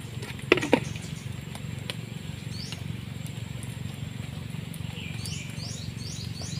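A bird calling in a quick run of short, falling high chirps near the end, over a steady low background noise. Two sharp clicks come about half a second in.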